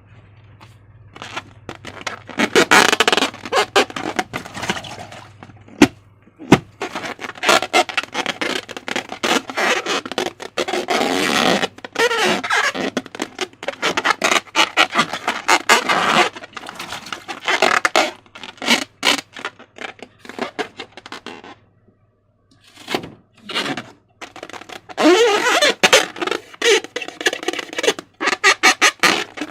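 Slime being squished and stretched by hand, giving dense wet crackling and squelching in long bursts, with a short pause shortly after the middle.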